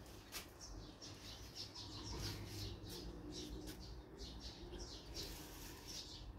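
Small birds chirping, a rapid run of short high calls several times a second, with a low steady hum underneath.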